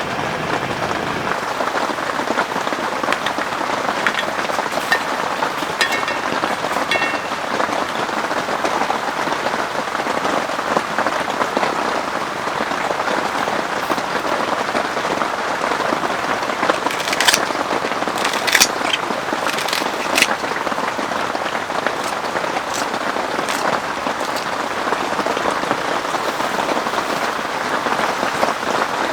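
Heavy rain falling steadily in a dense, even patter, with a few sharper taps a little past halfway.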